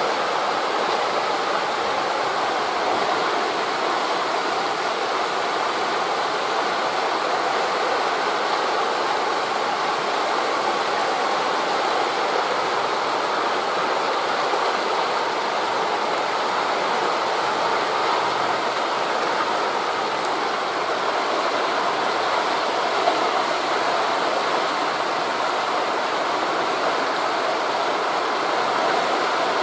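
Steady rushing noise of wind through forest leaves blended with waves breaking on a beach below, even and unbroken throughout.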